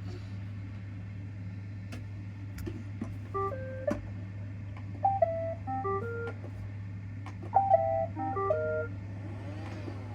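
Roomba robot vacuums humming steadily, with three short electronic tunes of stepped beeps about three, five and seven and a half seconds in: the robots' start-up chimes.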